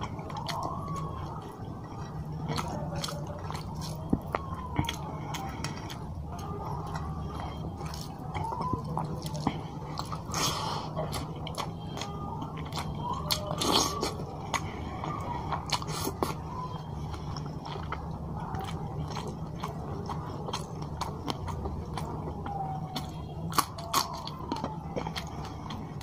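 Close-up chewing of a mouthful of rice and fish curry eaten by hand: wet, moist mouth sounds with many small sharp clicks scattered throughout, over a steady low hum.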